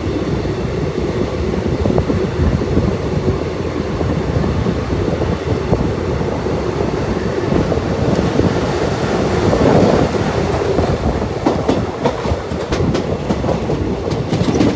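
Express passenger train running at speed, heard from inside a sleeper coach: a steady rumble of wheels on rail with a hum, and from about two-thirds in a quick run of sharp wheel clacks over rail joints or points.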